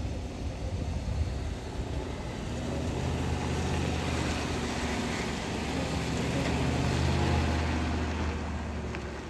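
Truck engine and road noise while driving: a steady low engine hum over tyre and wind noise, building to a peak about seven seconds in, then easing off.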